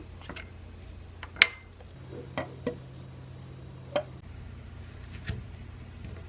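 A handful of sharp clinks and taps from small hard household objects, the loudest about a second and a half in, over a low steady hum that grows stronger for a couple of seconds in the middle.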